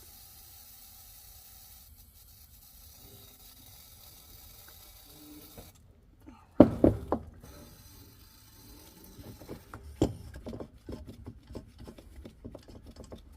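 Faint steady hiss, then a sudden cluster of loud knocks about six and a half seconds in, followed by a run of lighter taps and knocks, as from tools and parts being handled.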